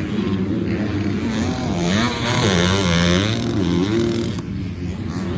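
Four-stroke 250cc motocross bikes riding the track, their engines revving up and down with the throttle, several at once at different pitches.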